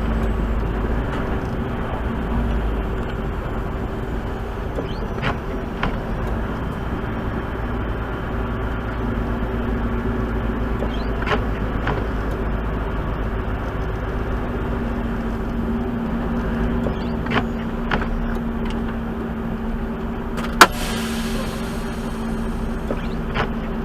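Tractor-trailer's diesel engine idling while the truck is stopped, a steady low hum. There are a few faint clicks through it and one sharp click about twenty seconds in, followed by a short hiss.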